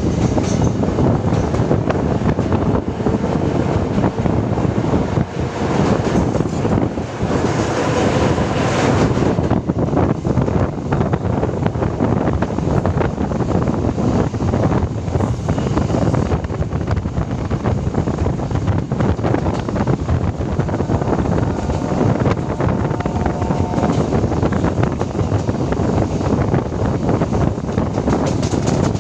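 Suburban electric local train running along the line: a steady loud rumble and clatter of wheels on track, with wind buffeting the microphone.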